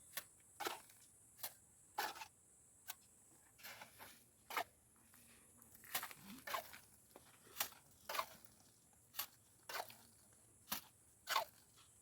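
Faint, irregular short scrapes, about one or two a second, of a tool working gritty mortar.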